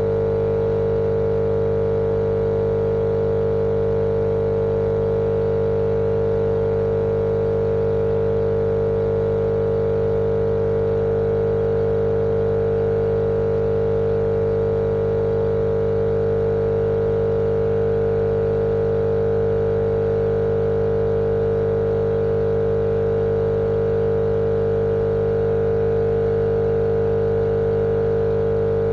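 Steady, unchanging machine drone with one strong mid-pitched hum over lower humming tones, used as a continuous sleep-noise track for babies.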